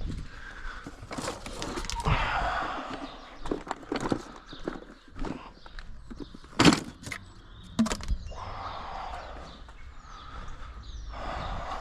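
Irregular knocks and clatter of objects being handled and moved about, with two sharper knocks about six and a half and eight seconds in.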